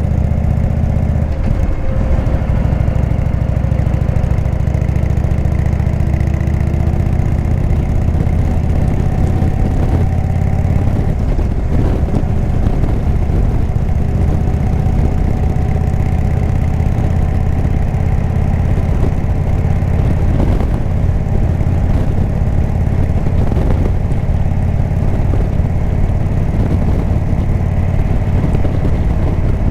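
Indian V-twin motorcycle engine running under way through a Jekill & Hyde exhaust. It is a loud, steady low rumble whose pitch climbs slowly during the first third.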